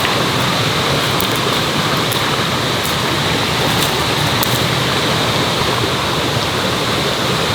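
Mountain stream flowing: a steady, loud rush of water, with a few faint high ticks.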